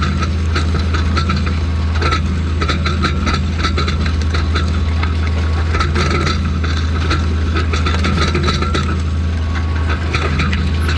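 White 6125 tractor's engine running steadily at work, a strong even low hum with a fast light clatter over it.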